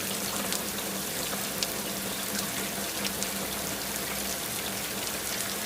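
Steady rain falling, a continuous hiss with many small drop ticks, over a faint steady low hum.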